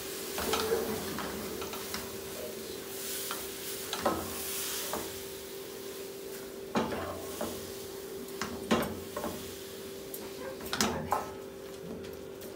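Grated carrot sautéing in ghee in a nonstick pan, with a steady sizzle as a spatula stirs and scrapes through it. The spatula knocks against the pan several times.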